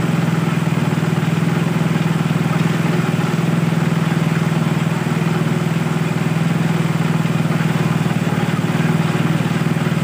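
Small petrol engine of a water pump running steadily at a constant speed, an unbroken even drone.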